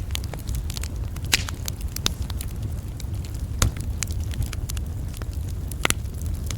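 Campfire crackling: a steady run of sharp pops and snaps over a steady low rumble, with three louder pops about a second and a half in, midway, and near the end.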